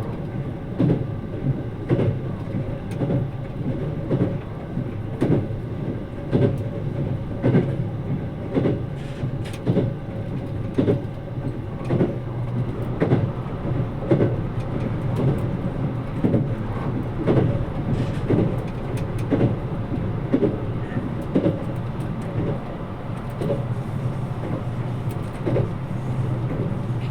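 JR Kyushu 787 series electric train running at speed, heard from inside the passenger carriage: a steady rumble with a regular clickety-clack of the wheels over rail joints, roughly one to two clicks a second.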